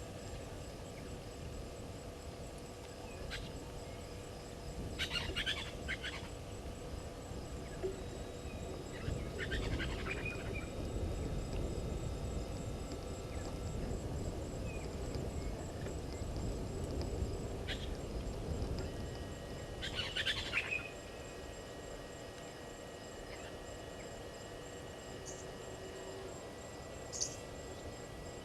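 Outdoor bush ambience: wild birds call in short bursts several times, over thin steady high tones and low background noise.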